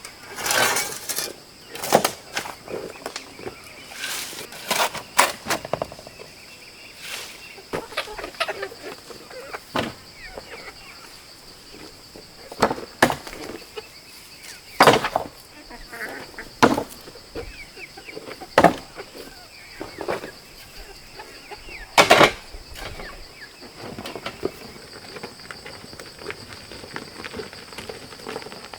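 Irregular sharp knocks and clatters, one every second or two and uneven in loudness, over a steady high drone of insects.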